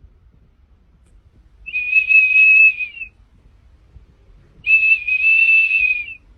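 Two long, steady high-pitched whistles, each about a second and a half, with a short pause between them.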